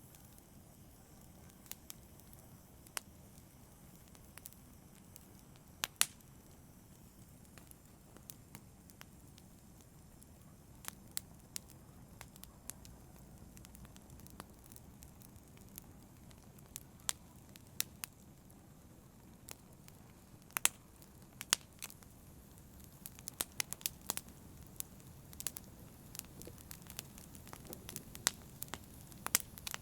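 Wood fire burning with a low steady rumble and sharp, irregular crackles and pops, sparse at first and coming thicker after about twenty seconds.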